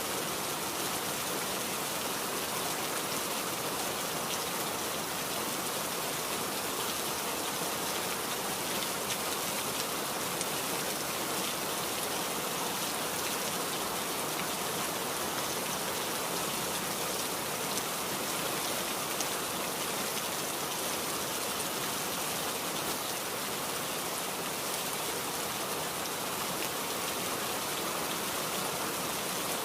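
Steady rain falling, with the patter of many individual drops hitting a surface.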